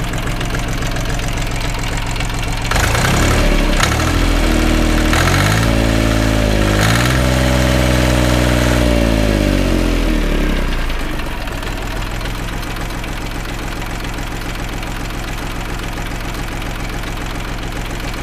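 Minitractor's diesel engine idling, then revved up about three seconds in, held for a few seconds and let back down to idle. The engine has a persistent knock that new injection pump, injectors, bearings, pistons and rings have not cured; the owner suspects the block, a cylinder liner or the bearings.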